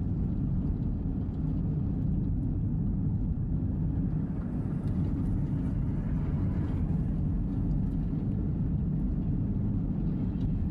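Steady low road rumble of a vehicle's engine and tyres on a snowy road, heard from inside the cabin while driving at about 30 mph.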